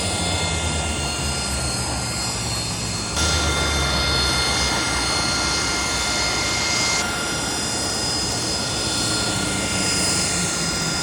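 Aircraft engine running steadily, a continuous roar with a steady whine over it. The sound shifts abruptly about three and seven seconds in.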